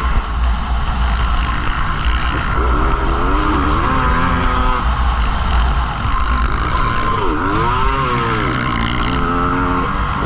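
Motocross motorcycle engines revving, their pitch climbing and falling twice, over a steady low rumble.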